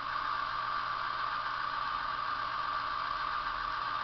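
Diesel engine sound of a first-generation British DMU, recorded from a real Class 109, played at mid revs on a light load by a model Class 108 DMU's Zimo MX648R sound decoder through tiny Eckig sugar-cube speakers. A steady engine note, sitting in a narrow band with little bass.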